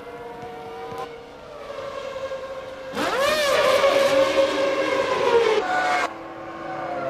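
Formula One racing cars' engines at high revs. About three seconds in, one car's engine comes in loud and close, its note swinging up and down with gear changes and then holding high. It cuts off sharply about six seconds in, leaving a steadier, more distant engine drone.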